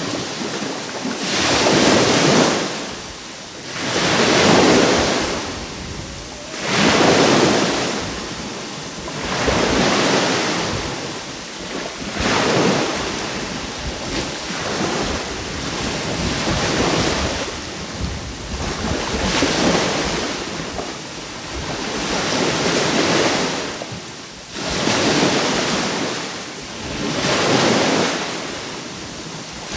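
Sea waves breaking and washing on the shore, one surge of surf every two to three seconds.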